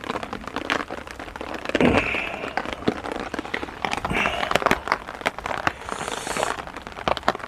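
Heavy rain falling on a small tarp overhead: dense, irregular drops ticking on the fabric, with a few louder brief rustles about two, four and six seconds in.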